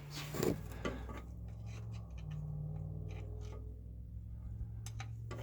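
Faint, scattered clicks of a screwdriver being worked into a rear differential's fill hole to check the gear-oil level, over a steady low hum.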